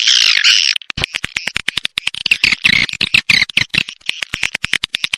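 Swiftlet lure-call recording: a burst of high twittering swiftlet chirps, then from about a second in a fast run of sharp clicks mixed with chirps. This is the kind of call played to draw swiftlets into a nesting house.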